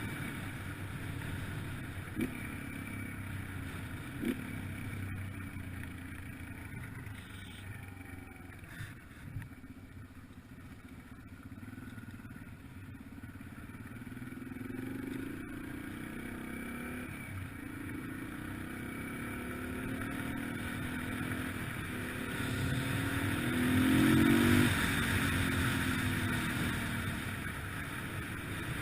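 Yamaha TT-R125LE dirt bike's single-cylinder four-stroke engine running while riding, its pitch rising and falling with the throttle and loudest towards the end. There is wind noise over the microphone.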